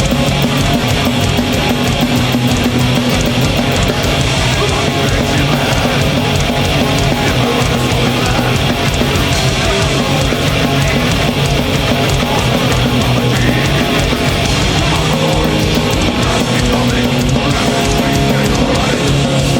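Heavy metal band playing live at full volume: distorted electric guitars, bass and a fast, pounding drum kit in an instrumental passage.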